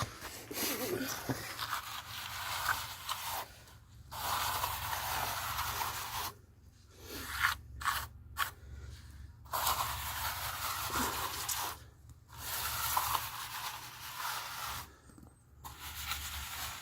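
A hand tool scraping and rubbing over a freshly applied lime-and-sand render on an adobe wall, smoothing and levelling the coat. It goes in rasping strokes of two to three seconds with brief pauses between them.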